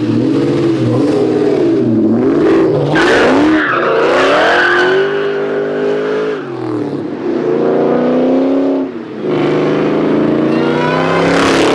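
A Ford V8 car engine accelerating hard. Its pitch climbs and drops back several times, with a brief dip in loudness about nine seconds in.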